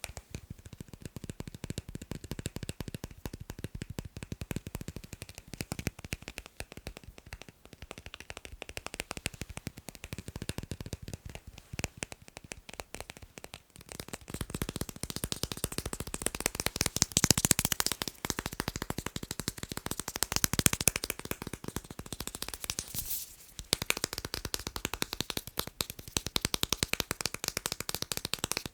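Fast tapping on magnets: a rapid, dense stream of small sharp clicks, growing louder and brighter about halfway through, with a brief lull shortly after.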